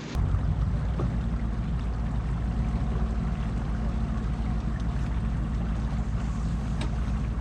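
Pickup truck engine idling steadily, a low even drone that comes in suddenly just after the start.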